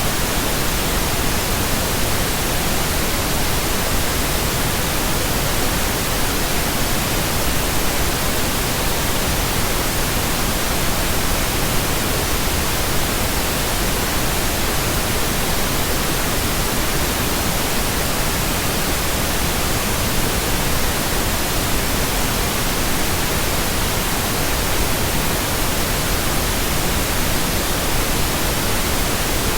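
Steady, unbroken pink noise: an even, hissing wash of sound across all pitches, with no tone or change.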